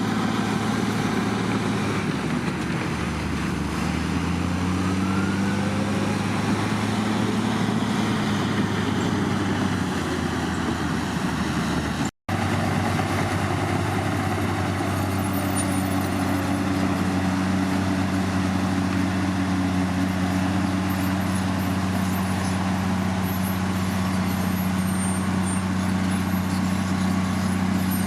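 Heavy diesel engine of earthmoving machinery running steadily under work, its pitch shifting a few seconds in. The sound cuts out for an instant about twelve seconds in, then the engine runs on steadily.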